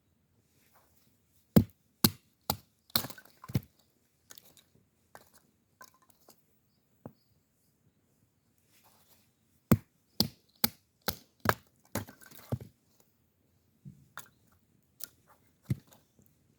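Firewood being chopped: sharp wooden knocks and cracks in two quick runs of strikes, one a couple of seconds in and another about ten seconds in, with a few scattered strikes after.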